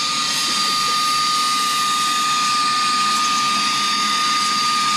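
Saker 3-in-1 cordless mini vacuum's brushless motor running steadily on its high setting: a jet-engine-like whine with one strong steady high tone over a rush of air.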